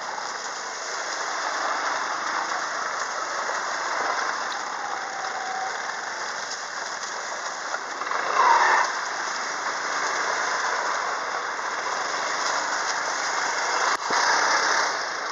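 Quad bike engine running steadily under a constant rushing noise, with a brief louder burst about eight seconds in.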